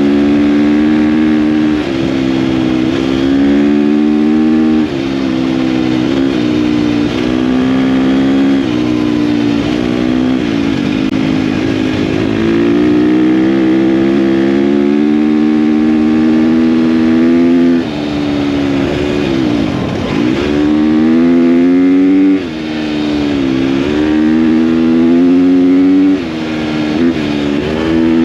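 KTM dirt bike engine running under way at a steady pitch. The note drops and climbs again every few seconds as the throttle is eased off and opened again, with a longer dip and climb about twenty seconds in.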